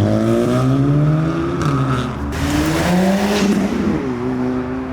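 Old-shape Mitsubishi Lancer Evolution's turbocharged four-cylinder pulling away: the engine note climbs, drops at a gear change about one and a half seconds in, climbs again and drops at a second shift near the end, then settles to a steady note.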